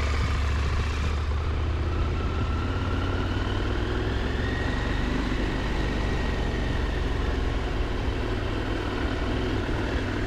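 Motorcycle engine running steadily, with a faint whine that climbs slowly in pitch over several seconds.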